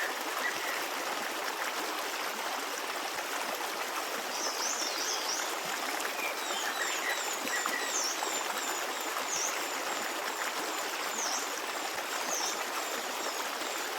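Forest stream babbling steadily, with small birds chirping high above it: a quick run of notes about four seconds in, then short repeated chirps through the middle.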